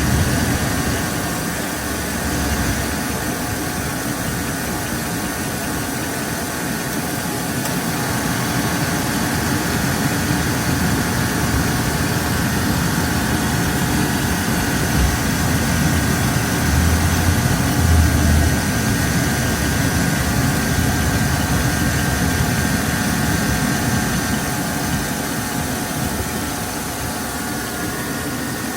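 Chevrolet truck engine idling with the air-conditioning compressor running and cycling while refrigerant is being added to the A/C system.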